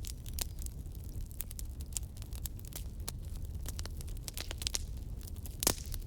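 Fireplace fire crackling: a quick, irregular stream of sharp pops and snaps over a steady low rumble, with one louder pop near the end.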